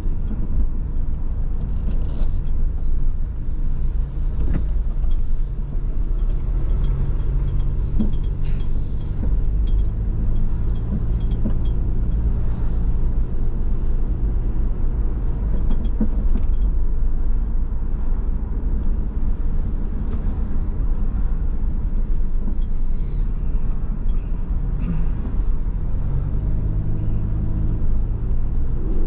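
Car driving along a road: a steady low rumble of road and engine noise, with a faint engine hum that comes and goes.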